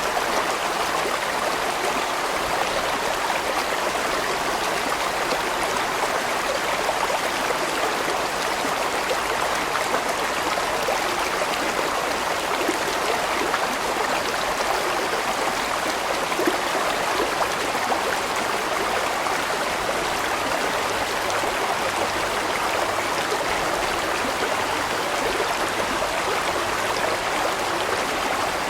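Large mountain stream flowing over rocks: a steady, unbroken rush of water with gurgling and splashing.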